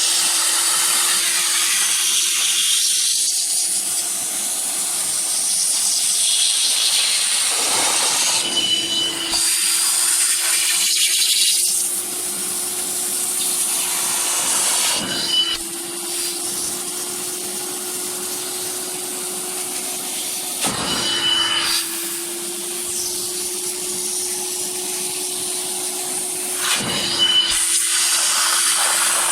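Zelmer Vodník 619.6 wet vacuum cleaner running in spray-extraction mode, its nozzle working over a fabric car seat: a steady motor whine with a high airy hiss. The sound shifts briefly about every six seconds as the nozzle makes its passes.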